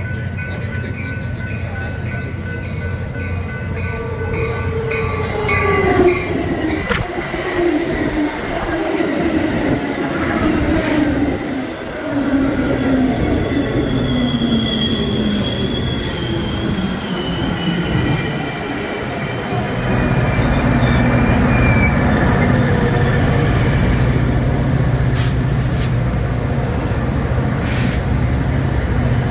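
A train passing on the railway line, with high wheel squeal. Its tones slide down in pitch as it goes by, and a steady low rumble takes over about twenty seconds in.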